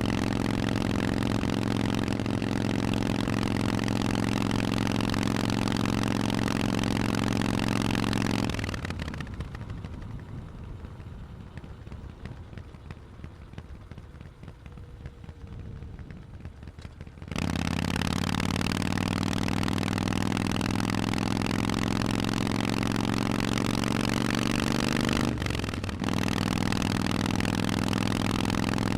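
Harley-Davidson Forty-Eight's V-twin engine through Vance & Hines exhausts, ridden at a steady throttle. About nine seconds in the throttle is closed and it goes much quieter for around eight seconds. It then comes back on the throttle and pulls with rising pitch, with a brief break for a gear change near the end.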